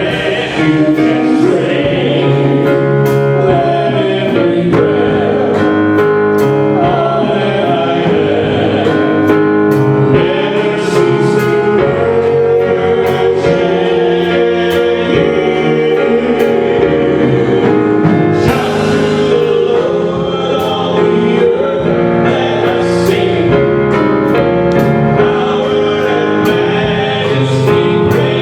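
Gospel worship music: a group of voices singing long held notes over instrumental accompaniment.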